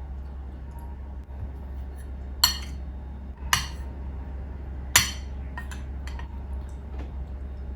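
Three sharp clinks with a short ring, like glassware or cutlery being set down, followed by a few lighter clicks, over a steady low hum.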